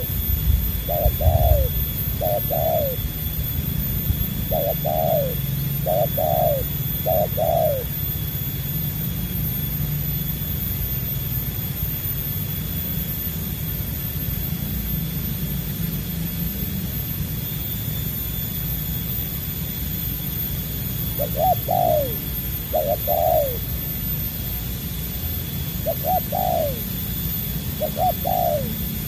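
Spotted dove cooing in short phrases of falling notes, in bursts at the start and again near the end with a long pause between, over a steady low rumble.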